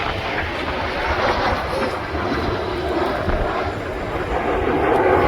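Propeller aircraft engine running with a steady sound.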